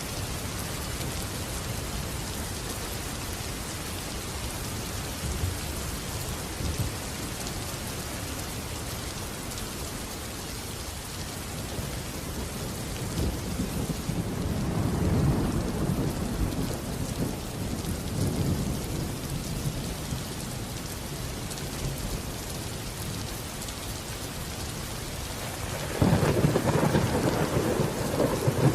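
Steady heavy rain with thunder: a low rumble swells and fades in the middle, then a sharp, louder thunderclap breaks out near the end and rumbles on.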